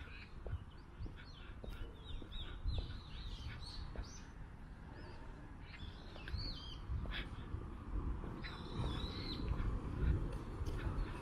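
Birds chirping in many short, bending high calls from about a second and a half in until near the end, over a low rumble.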